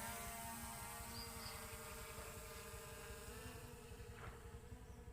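DJI Mavic Air 2 drone's propellers buzzing steadily, slowly fading as it flies away.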